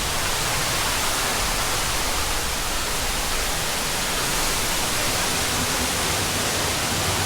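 Waterfall's steady rushing roar of falling water, an even hiss-like noise with no change in level.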